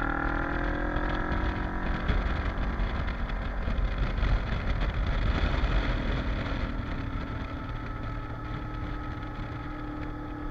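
Kawasaki KLE motorcycle engine running under way, its pitch rising slightly as it pulls, then held steady near the end. A gusty rush of wind noise covers it in the middle.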